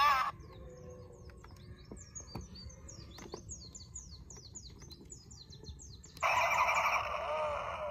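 Music cuts off at the start, leaving small birds chirping in a quick run of short, falling chirps over a faint background. About six seconds in, a much louder sound with a wavering pitch starts abruptly.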